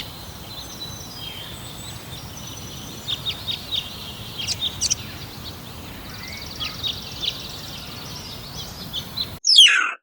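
Small birds chirping: many short, high chirps over a steady outdoor background hum. Near the end, after an abrupt change of background, comes one loud call that sweeps down in pitch.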